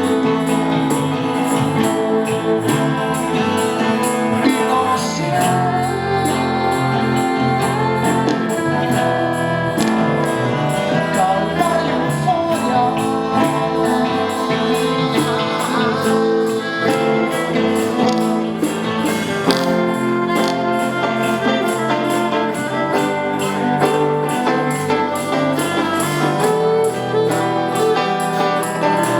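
Live rock band music: guitars and bass over percussion keeping a steady beat of about three strokes a second, with a viola among the instruments.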